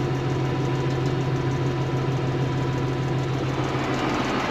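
Tractor diesel engine idling steadily, a constant low drone with no change in speed.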